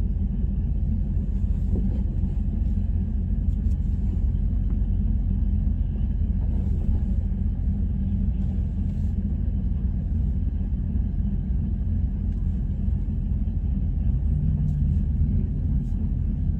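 Car engine idling steadily, a low rumble heard from inside the car's cabin.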